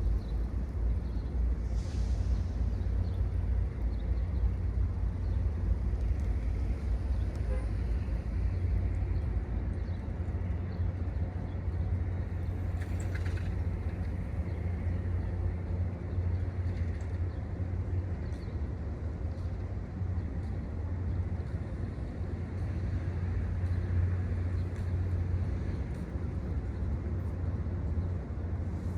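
Engine idling steadily, a constant low hum with outdoor background noise.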